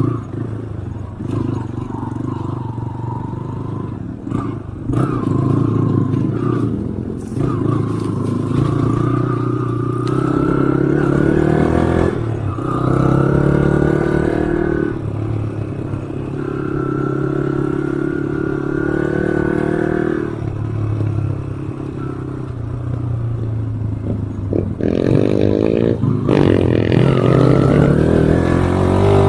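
Off-road motorcycle engine running along a dirt trail, its pitch climbing and dropping several times with the throttle and gear changes.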